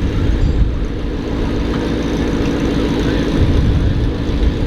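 Car engine running steadily at idle, a dense low pulsing that holds at one level.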